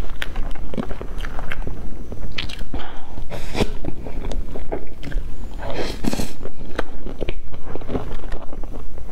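Close-miked wet chewing and lip smacking of a mouthful of soft cream sponge cake, a rapid run of small clicks and smacks, with two louder bursts about a third of the way in and past the middle.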